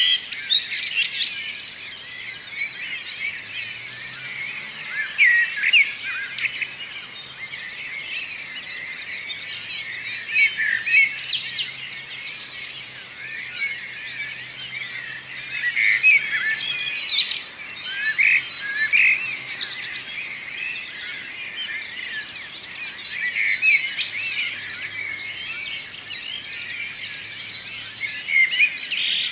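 Morning chorus of many songbirds singing at once: a dense, overlapping tangle of chirps, trills and warbles, with louder nearby calls every few seconds.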